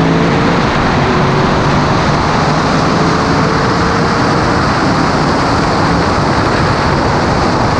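A car engine held at full throttle in a high-speed pull, its pitch climbing slowly, buried under heavy wind and road roar.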